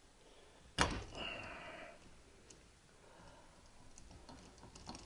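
A sharp metallic clink about a second in, ringing briefly, then a few faint ticks: metal parts knocking as valve spring collets are worked free from a motorcycle cylinder head with a valve spring compressor.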